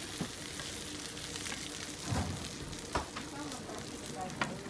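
Potato-shred rolls sizzling steadily as they pan-fry in a wide, shallow metal pan, with three knocks of a metal spatula against the pan; the first two, about two and three seconds in, are the loudest.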